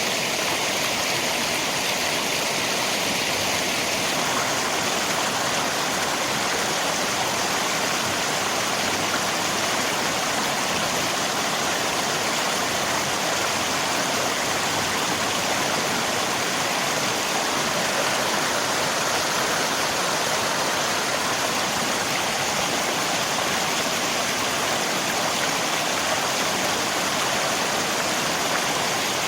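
Steady, even rush of flowing river water mixed with rain, an unbroken wash of water noise.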